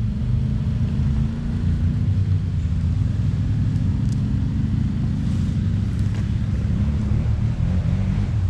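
Engines of a column of quad bikes (ATVs) running as they pass by, a steady low rumble with the engine note wavering near the end.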